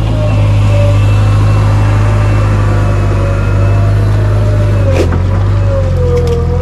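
Heavy diesel engine running loud and steady, its pitch wavering slightly, with a sharp click about five seconds in.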